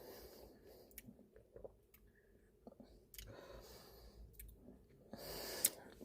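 Faint chewing and mouth noises of someone eating, with a few light clicks scattered through and a slightly louder stretch near the end.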